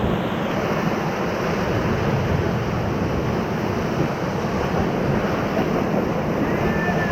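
Whitewater rapids rushing steadily around a raft on the river.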